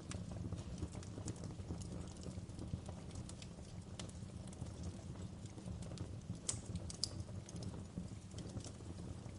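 Wood fire crackling in a fireplace: irregular sharp pops and snaps, the loudest a little after six and seven seconds in, over a low steady rumble of the burning fire.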